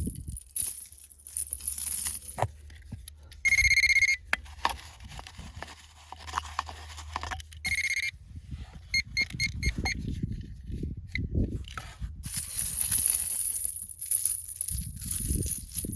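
Electronic beeps: a long high beep about three and a half seconds in, a short one near eight seconds, then a quick run of short beeps, over a low steady hum. A loud hissing rustle follows a little after twelve seconds.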